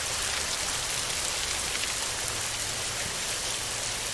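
Heavy rain pouring steadily on a tin roof, an even hiss with scattered drop hits.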